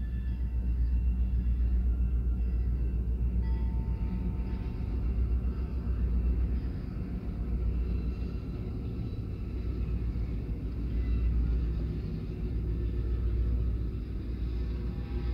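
Canadian Pacific diesel locomotives and the first freight cars of a train rolling through a level crossing: a steady low rumble of engines and wheels on rail, heard muffled from inside a car.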